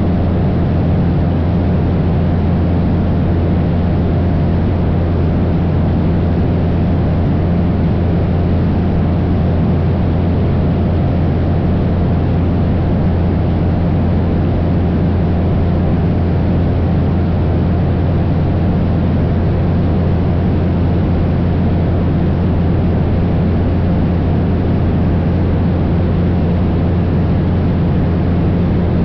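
Cessna 172 single-engine piston airplane in steady flight: the engine and propeller drone at a constant, unchanging pitch with a deep hum, under a steady rush of noise.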